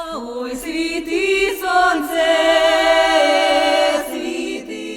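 Group of voices singing a Ukrainian folk song in long, drawn-out held notes that shift pitch together.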